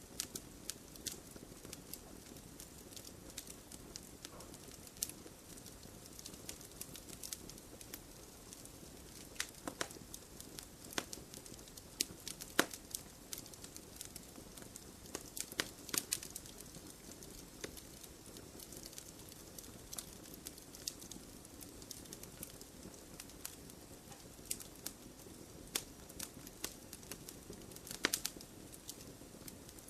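Wood fire burning in a stone fire pit: a low steady hiss of the flames with irregular sharp crackles and pops, a few louder snaps about twelve, sixteen and twenty-eight seconds in.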